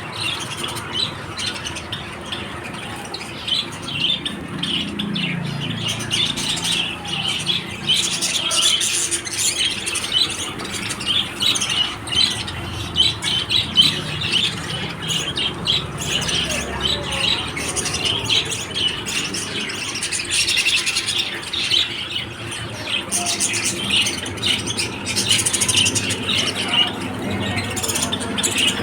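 Lovebirds chattering: a continuous stream of rapid, high squawks and chirps.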